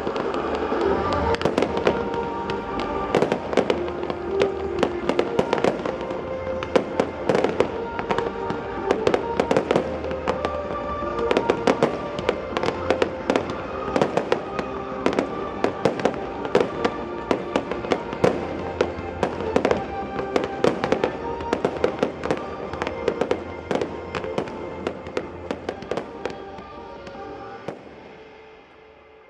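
Fireworks display: a dense run of bangs and crackling over music with held notes, both fading away near the end.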